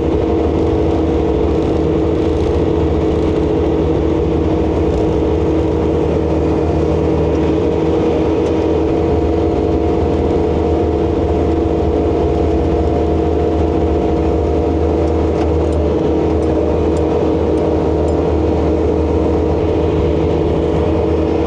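ASV RC100 skid steer's diesel engine running at a steady speed, with a steady whine riding over its hum; the machine's bucket rams let the arms sag, which the owner puts down to blown cylinder seals.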